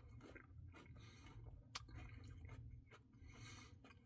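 Faint chewing and wet mouth sounds of someone eating ice cream, with a few soft clicks and one sharper click a little under two seconds in.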